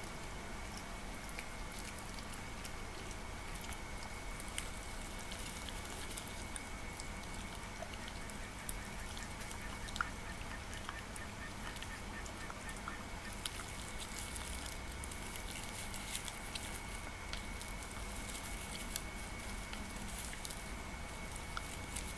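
Shiba Inu eating soft food: faint wet chewing and licking with scattered small clicks, over a steady hiss and a faint high steady tone.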